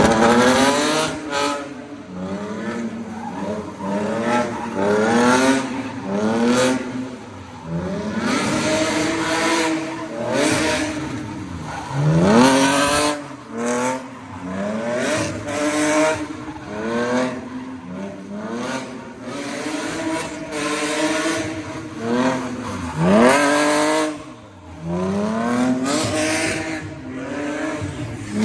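BMW E46 engine with headers, revved hard again and again during drifting: the pitch climbs steeply and drops back every second or two. Tyre noise runs underneath.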